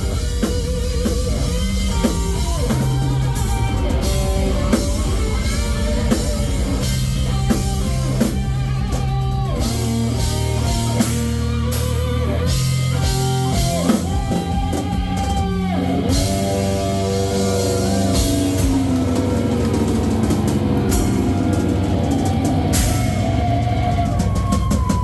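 Live metal band playing hard and loud: pounding drum kit under distorted electric guitars, with melodic guitar lines bending in pitch over the top. This is the closing stretch of the song.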